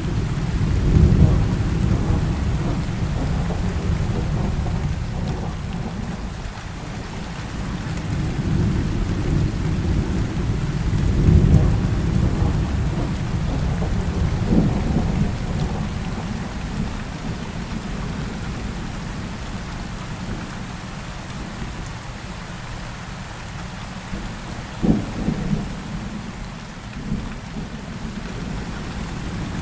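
Heavy rain falling steadily through a thunderstorm, with deep rolling thunder swelling about a second in and again near the middle. Short sharp cracks of thunder come later, one just past halfway and another near the end.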